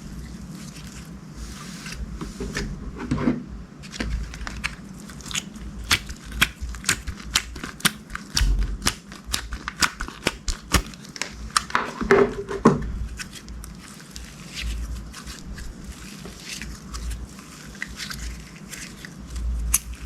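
Slime being worked by hand, with a fast run of sharp crackling clicks and pops in the middle that thins out to softer squishing near the end.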